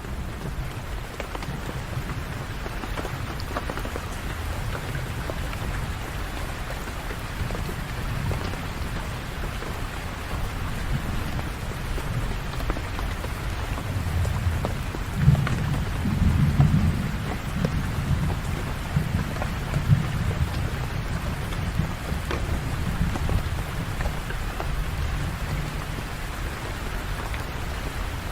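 Steady rain falling, with a low thunder rumble underneath that swells louder a little past halfway.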